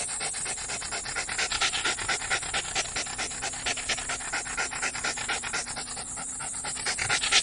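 Dog panting fast and steadily, several quick breaths a second.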